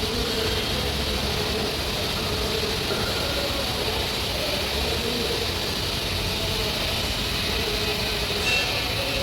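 Steady machine noise: a low hum with a hiss over it, and a short high tone about eight and a half seconds in.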